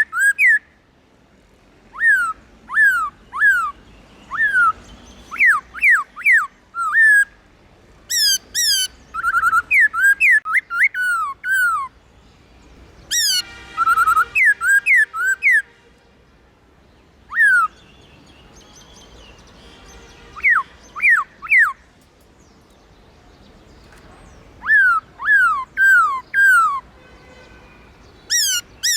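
Black-throated laughingthrush singing: runs of loud, clear whistles that each slide down in pitch, several in quick succession, broken by pauses of a second or more, with a harsher, rougher phrase mixed in about halfway through.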